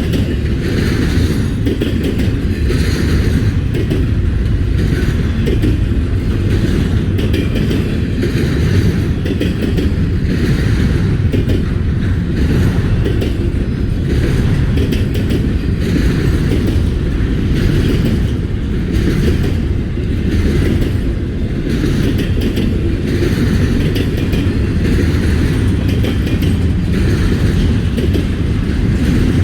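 Double-stack freight train's cars rolling past: a loud, steady rumble with a regular clickety-clack of wheels over rail joints, about once a second.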